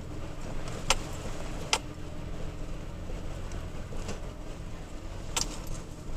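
3rd-generation Toyota Tacoma driving a rough dirt road, heard from the cab: a steady low engine and road drone, with three sharp knocks or rattles from the bumpy track, two close together about a second in and one near the end.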